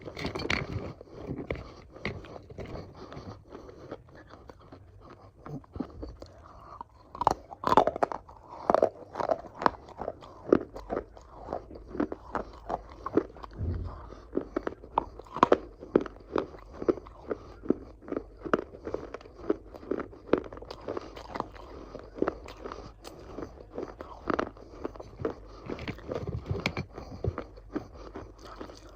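Close-miked eating of crunchy food: a person biting and chewing, a steady run of crisp crunches, often about two a second, loudest about seven to ten seconds in.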